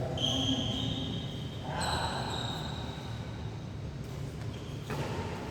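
Sports shoes squeaking on an indoor court floor: short high squeals near the start and about two seconds in, over the low rumble of a large hall, with a faint sharp knock near the end.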